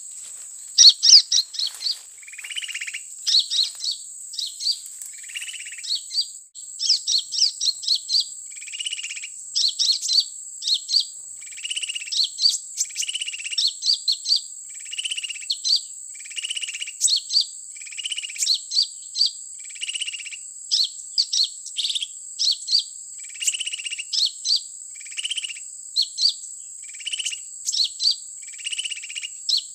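Recorded sunbird calls played back from an MP3 player as a lure, short high chirping phrases repeating about once a second. A steady high insect drone runs underneath.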